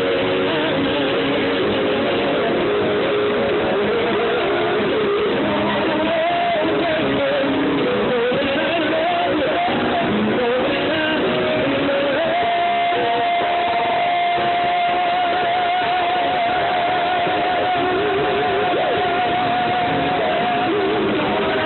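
Live band music with a singer. From about halfway through, one high note is held for several seconds, with vibrato setting in toward the end.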